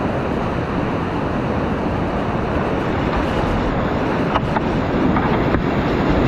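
Steady rush of whitewater on a mountain river, with a couple of faint clicks near the end.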